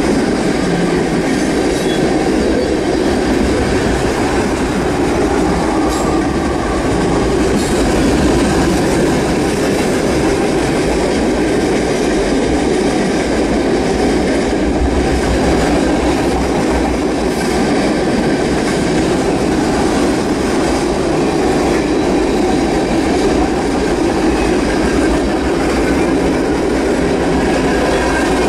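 Norfolk Southern freight train's cars rolling past: a loud, steady rumble of steel wheels on rail with repeated clicking over the rail joints.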